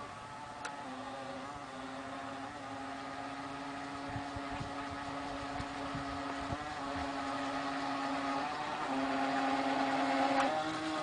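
High Wind 757 NQD radio-controlled speedboat's motor running with a steady whine. Its pitch shifts in small steps and rises near the end, growing louder in the later part.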